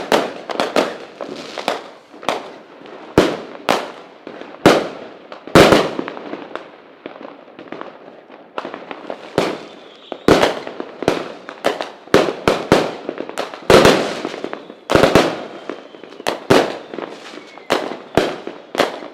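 A fireworks display: a rapid, irregular series of loud aerial shell bursts and bangs, several a second at times, each trailing off in echo and crackle.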